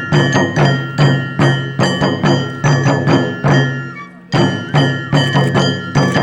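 Traditional Japanese festival percussion: a drum struck in a fast, even beat of about three to four strokes a second, with metal percussion ringing steadily over it. The playing breaks off briefly about four seconds in and starts again.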